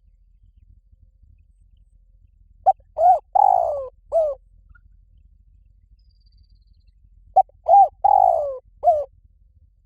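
Spotted dove cooing: two phrases about five seconds apart, each of about four notes, the third note longer and falling in pitch.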